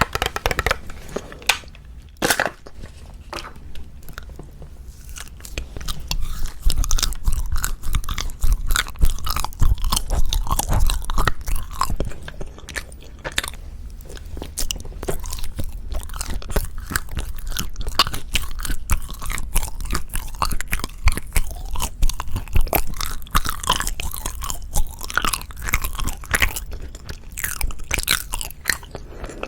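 Close-miked chewing and biting of wagashi (Japanese-style confections), a dense run of small mouth clicks and smacks that grows louder several seconds in.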